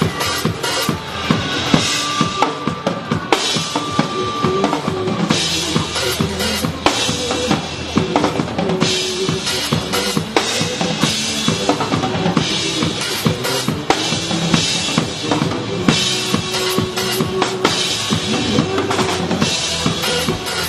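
Drum kit played along with a recorded backing track: a steady beat of bass drum and snare strikes over the song's music.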